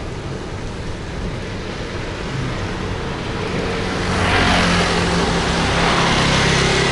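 Road traffic: a motor vehicle passes close, its engine hum and road noise swelling about four seconds in and staying loud.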